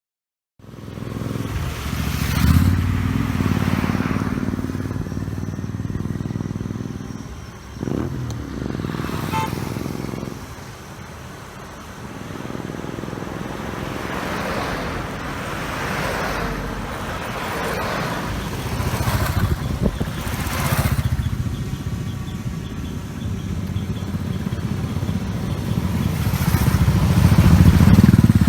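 Motorcycle engines running as a group of bikes rides past, with repeated swells of engine noise that grow louder near the end.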